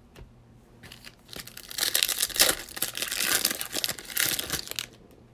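Foil wrapper of a baseball card pack crinkling as it is torn open and handled, a dense crackle lasting about three seconds.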